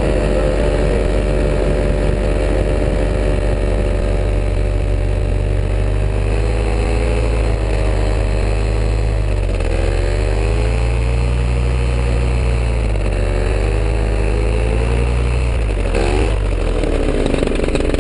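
Powered paraglider's engine running steadily in flight, its pitch dipping and recovering a few times as the throttle changes, over a rush of wind.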